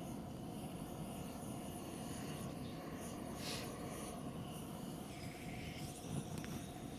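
Wood bonfire burning outdoors, a steady low rumble with a few faint crackles and pops.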